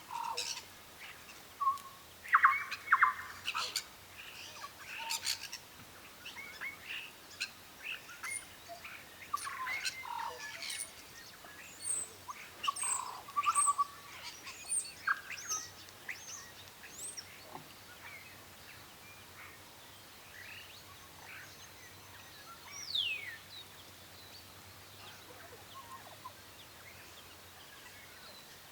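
Birds chirping and calling: many short, high calls in the first half, thinning out later, with one long falling whistle past the middle.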